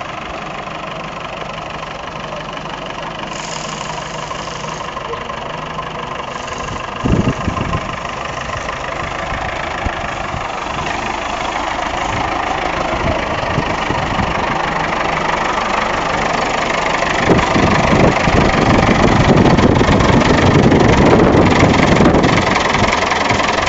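Tractor engine running steadily, with a brief knock about seven seconds in, then growing louder and deeper over the second half as it works harder.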